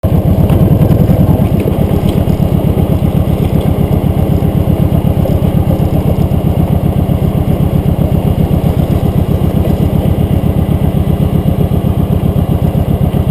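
Motorcycle engine running steadily, close up, with an even rapid pulsing beat. It is slightly louder in the first second or two.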